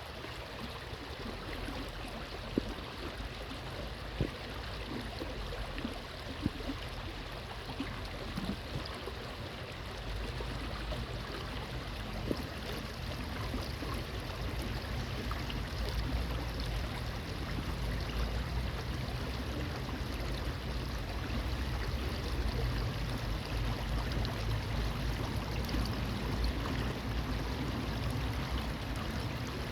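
Stream water running steadily over its bed, with a few small splashy ticks early on. A low rumble comes in about a third of the way through and the whole sound grows gradually louder.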